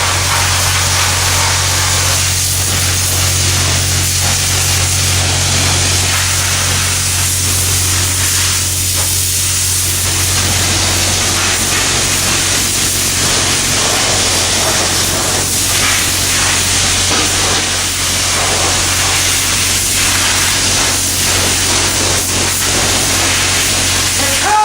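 Self-serve car wash high-pressure spray wand running steadily, a continuous hiss of water jetting onto parts, over a steady low hum.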